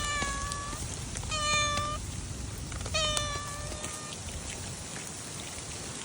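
A cat meowing three times, each a short pitched call, in the first four seconds, over a steady hiss of falling rain.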